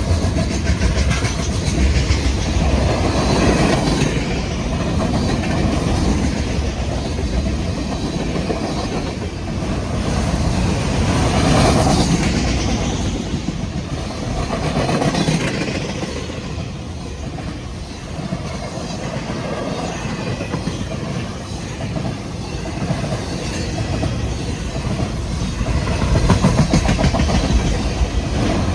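Union Pacific freight train rolling past, its cars' steel wheels rumbling and clattering over the rail joints. It runs loud and unbroken, swelling and easing in waves.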